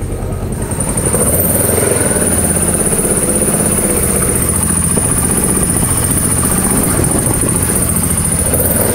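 1994 Kawasaki KLE400 parallel-twin engine running loud and steady, its level rising about a second in, with a high whine joining at the same time.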